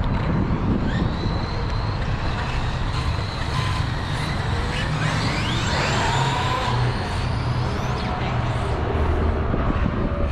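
Redcat Tornado RC truck running, heard from on board: its motor's whine rises and falls with the throttle over a steady rumble of tyre and wind noise.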